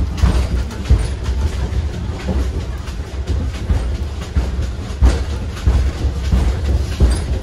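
Passenger train carriage running over rough track, heard from inside a sleeper compartment: a constant low rumble and rattle with irregular clattering knocks, loudest about a second in and again about five seconds in. The ride is extremely bumpy.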